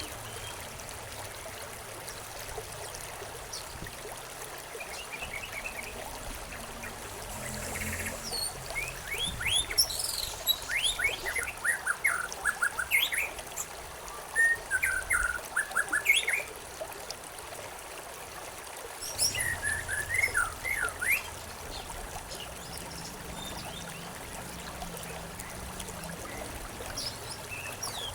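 Birds chirping in two spells of quick, rapidly falling notes, the second one shorter, over the steady trickle of a stream.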